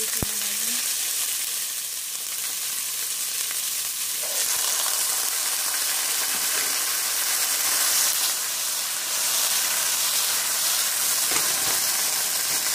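Canned, already-boiled chickpeas sizzling steadily in hot oil with cumin seeds and dried red chillies in a non-stick frying pan, as they go into the tempered oil.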